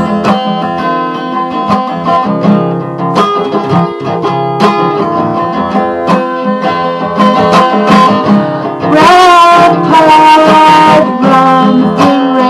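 Acoustic guitar strummed and picked in an instrumental break of a song. About nine seconds in, a louder wavering lead melody comes in for about two seconds.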